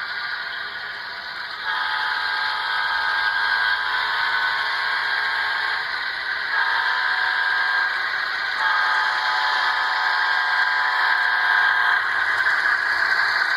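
Digital sound decoder in an HO-scale Union Pacific GEVO model locomotive blowing its recorded diesel air horn through the model's small speaker, several long blasts that start about two seconds in and stop near the end, over the decoder's steady engine hiss.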